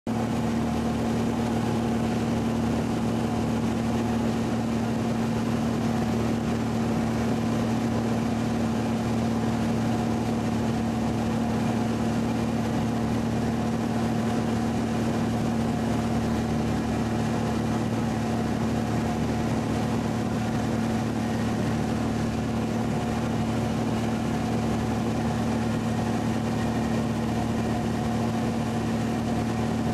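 Light airplane's engine and propeller droning steadily in flight, one constant low hum with a fainter higher tone above it.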